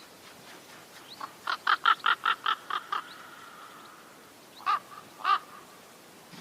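A crow cawing: a quick run of about eight short calls, then two more calls spaced apart.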